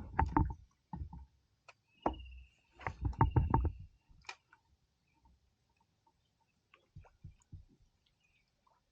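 Fishing gear being handled on a plastic kayak: a string of knocks, thuds and clicks in short clusters, with a thin high whine for about two seconds in the middle.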